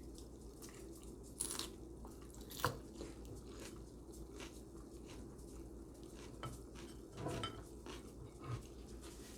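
Eating close to the microphone: a fork or utensil clicking against a plate a few times, with quieter chewing between.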